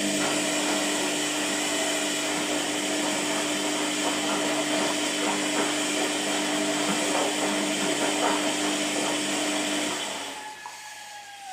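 Washing machine running with a loud, steady motor hum and rushing noise. It cuts in abruptly and about ten seconds in drops away, leaving a whine that falls in pitch as the motor winds down.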